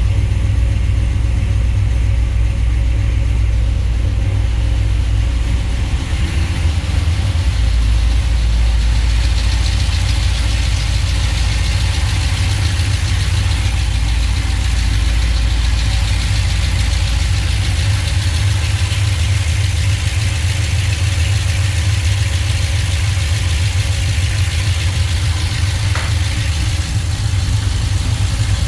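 A 5.3L L59 flex-fuel V8 with a BTR Truck Norris camshaft idling steadily on its first start after installation, still untuned.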